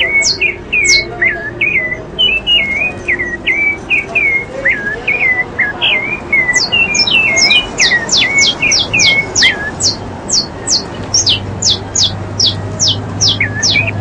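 Several birds calling: lower hooked chirps repeated through the first ten seconds or so. Overlapping them, from about six seconds in, comes a fast series of high, sharply falling notes, about three a second.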